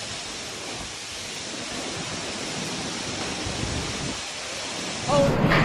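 Heavy storm downpour hissing steadily and building slightly. About five seconds in it gives way to a louder, deeper rush with a brief voice.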